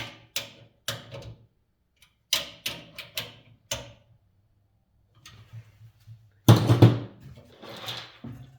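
Metal parts of a box fan being handled and fitted back together: a run of sharp clicks and knocks, then a louder, longer clatter about six and a half seconds in.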